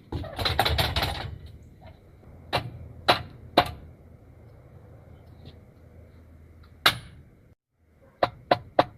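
Workshop handling noise: a rattling clatter for about a second, then single sharp knocks, three close together and one later, and a quick run of four clicks near the end.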